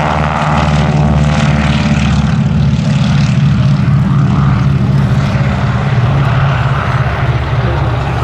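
Beech 18 twin-engined propeller aircraft taking off at full power, its two Pratt & Whitney R-985 radial engines making a loud steady drone with a regular beat.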